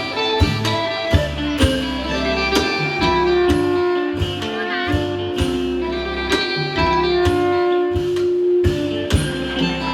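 Isan pong lang folk ensemble playing a tune: held melody notes over plucked strings, a bass line and a regular beat of drum strikes.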